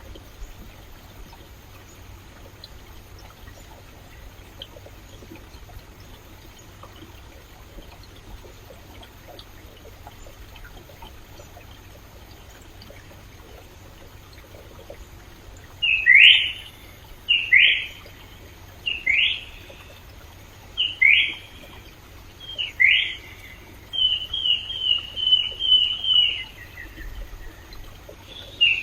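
Stream water running steadily. From about halfway through, a bird calls loudly with short sweeping notes, roughly one every second and a half, then a quick run of notes that falls away near the end.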